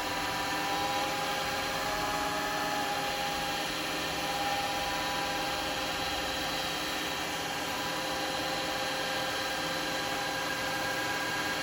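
Wood lathe running at a raised speed: a steady motor whine with several held tones that settle in the first couple of seconds.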